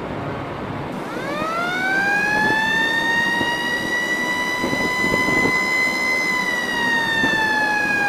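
A ship's horn sounds a high, pure-toned note that glides up in pitch about a second in, then holds steady and sags slightly near the end.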